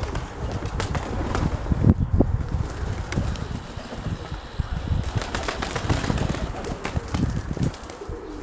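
Pigeons cooing, with wings flapping, over gusty wind rumbling on the microphone.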